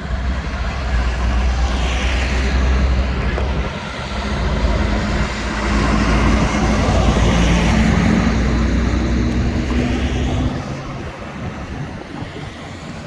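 Heavy diesel vehicles driving past close by: a low engine drone with tyre noise that swells and fades, twice, before dropping away about ten seconds in.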